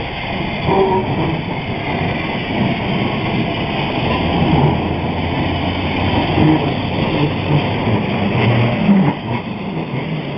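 Electric tram 1017 running on its track with a steady, loud rumble and rattle from its wheels and running gear, and the odd brief squeal; the title calls its noise funny.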